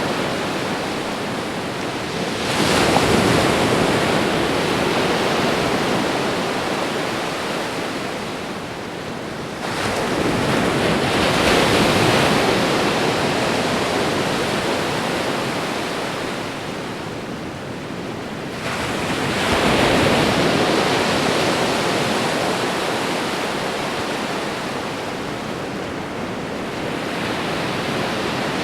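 Ocean waves breaking on a shore with a continuous rushing surf. Three large waves swell in and break, about 2.5, 10 and 19 seconds in, each fading back between.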